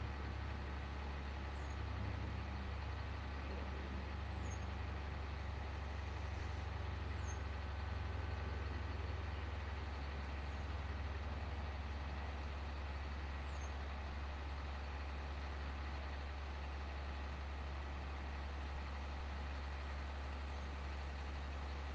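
A vehicle engine running steadily, a constant low hum with no changes in speed.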